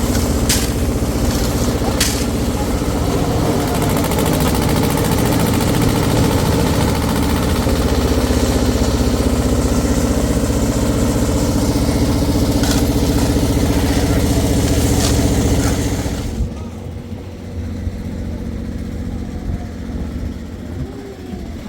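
Engine running steadily, with a few sharp knocks in the first couple of seconds; about sixteen seconds in it falls away abruptly, leaving quieter background sound.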